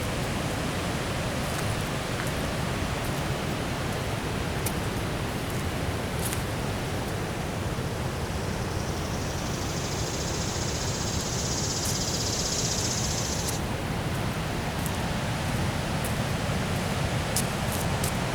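Steady rush of water pouring over a river dam's spillway.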